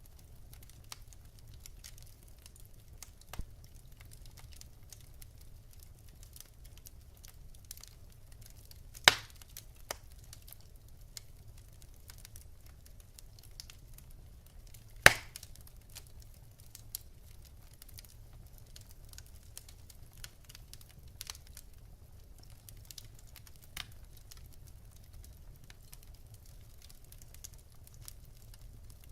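Wood fire burning in a fireplace, crackling with scattered small clicks and two loud pops, one about nine seconds in and one about halfway through, over a low steady rumble.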